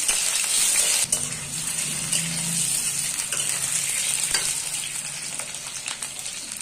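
Potato chunks frying in hot oil in a kadhai: a steady sizzle that slowly eases off, with light scrapes and taps of a metal spatula stirring them.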